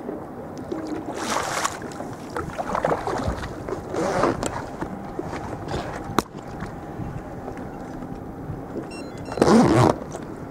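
Sea kayak on the water: irregular rushes of splashing water and wind noise, with one sharp click about six seconds in and the loudest rush near the end.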